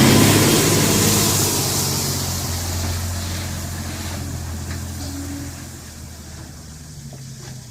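Isuzu Giga dump truck's diesel engine running with a low, steady hum, growing steadily fainter.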